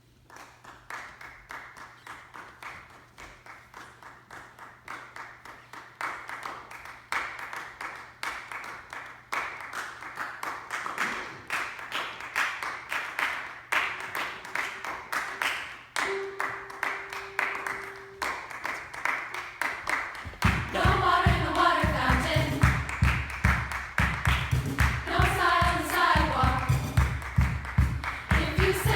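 A choir claps out a quick, even rhythm for about twenty seconds, slowly getting louder. Then the choir starts singing over it, with a strong low beat coming in underneath.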